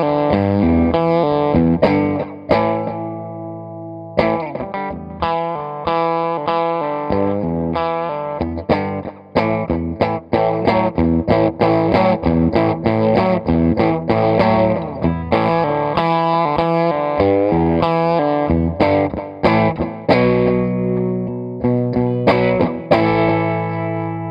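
Electric guitar, a PRS McCarty, played through an Electra MPC-8 Tube Sound module with some overdrive: chords and quick single-note runs, with a chord left to ring out and fade near the end.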